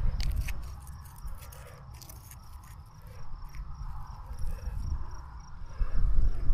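Insects chirping steadily in a fast, even pulse, over soft rustling and scattered sharp clicks from dug soil and broken fragments being handled.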